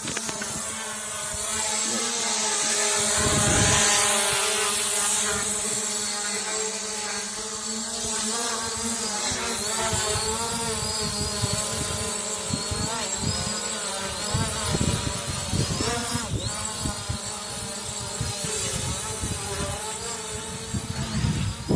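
SG906 quadcopter drone's brushless motors whining, their pitch wavering up and down as the drone works to hold position in strong wind, with gusts buffeting the microphone.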